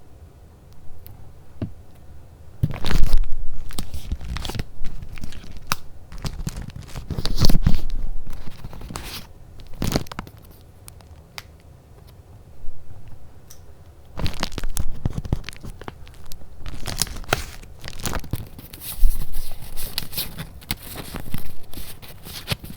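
Close-up paper handling: sheets rustling, crinkling and tearing in irregular bursts, with short quiet gaps between.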